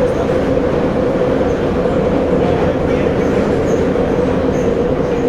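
Metro train running, heard from inside the passenger car: a steady rumble of wheels and tunnel noise with a steady hum running through it.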